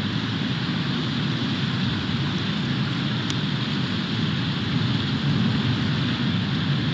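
Steady wind noise of a snowstorm blowing across an outdoor nest-cam microphone, with one faint tick about three seconds in.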